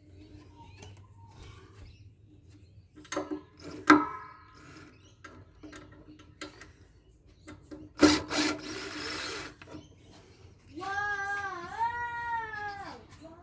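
A few sharp metal clanks, one ringing, and a short scraping burst from tools working on the inverter; near the end a cat gives one long, wavering meow.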